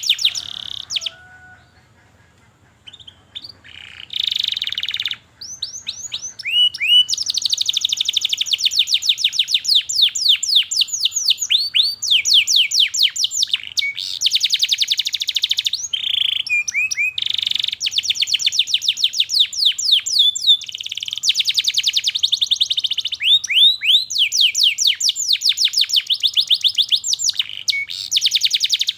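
Domestic canary singing long, fast trills of rapidly repeated downward-sweeping chirps (the 'cuit cuit' type of song). The song stops briefly about a second in and resumes a few seconds later, then runs on almost without a break.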